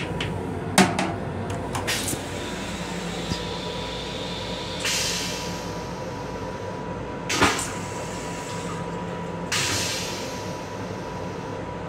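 Running noise of a Metro-North M7 electric multiple-unit railcar heard inside its restroom: a steady rumble with a faint steady whine. A few sharp clicks and knocks come about a second in, at about two seconds and at about seven and a half seconds, and two short hissing rushes come near the middle and near the end.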